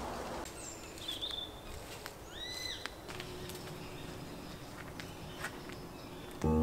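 Quiet woodland ambience with a few short bird calls: a brief whistle, then an arching call a second later. Music comes in abruptly near the end.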